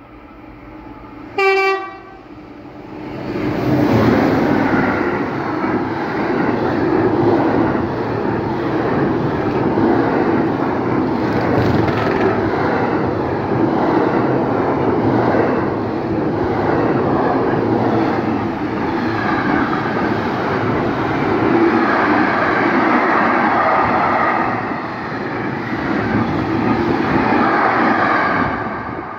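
A brief horn blast about a second and a half in, then the loud, steady noise of a freight train passing close by: SNCF BB 27022, a BB 27000 electric locomotive, hauling a rolling-highway train of wagons carrying lorry trailers. The noise drops away near the end as the last wagons go by.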